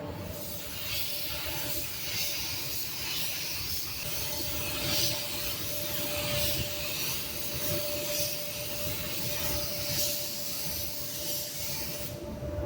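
Compressed air hissing steadily for about eleven seconds, then cutting off near the end, over a constant mid-pitched tone and a low rumble.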